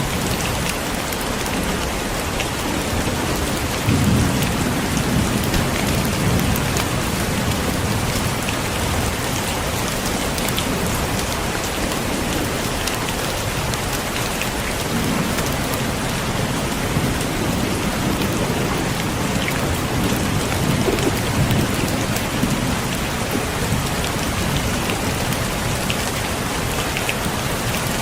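Heavy rain falling steadily in a dense, even hiss, with low rolls of thunder swelling about four seconds in, again near the middle and later on.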